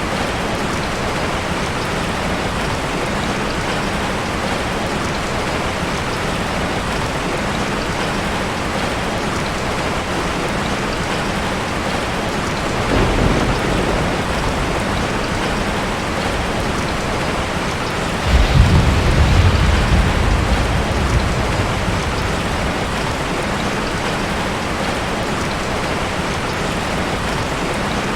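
Steady rain falling, with two low rumbles of thunder: a short one about halfway through and a louder one a few seconds later that lasts several seconds.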